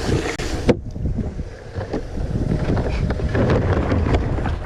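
Wind buffeting the microphone in a steady low rumble, with a few light knocks scattered through it.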